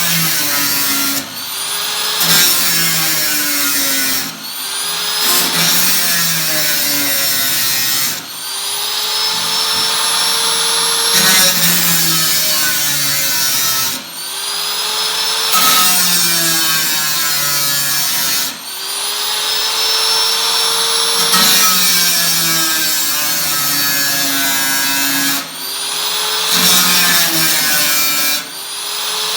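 Power tool cutting into the thin steel of an 18-litre square tin can, in repeated passes of a few seconds. Each pass starts after a brief dip and builds back up, with a metallic tone that bends in pitch as it goes.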